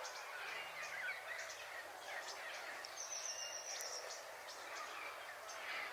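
Many birds calling over each other, short overlapping calls with no break, and a brief buzzy high note about halfway through.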